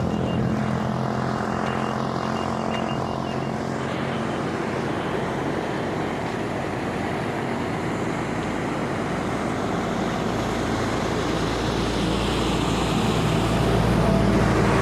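Steady engine noise with a rushing sound over a low hum; the hum is strongest near the start and again near the end.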